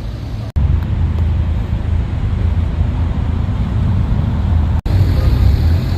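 Steady low rumble of car engines and road traffic. It cuts out completely for an instant twice, about half a second in and near the end.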